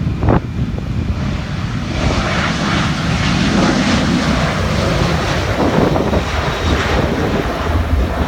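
Boeing 737-800's CFM56 jet engines running at takeoff thrust: a steady rumbling roar. A brief thump comes right at the start, and about two seconds in the sound grows louder and hissier.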